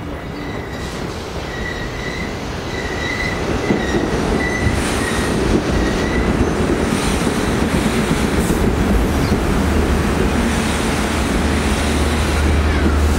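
Long Island Rail Road train of C3 bilevel coaches rolling into a station, its wheels squealing in a thin, wavering high tone through the first half over a rising rumble of wheels on rail. A steady low drone joins about ten seconds in as the train keeps rolling past.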